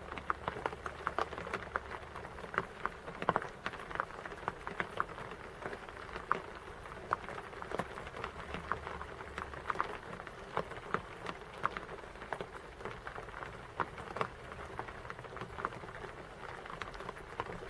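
Rain falling steadily, with many irregular drops pattering and ticking onto a hard surface.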